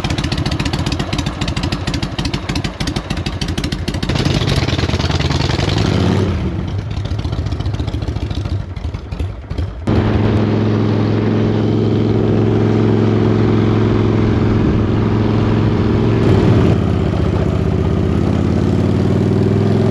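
Harley-Davidson V-twin engine of a chopper motorcycle running and riding off, with a fast clattering pulse for the first few seconds, then rising and falling revs. From about ten seconds in it holds a steady note at cruising speed.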